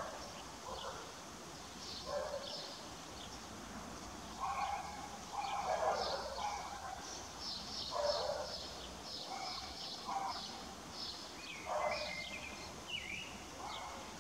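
Wild birds calling: quick runs of short high chirps, mixed with lower calls every second or two.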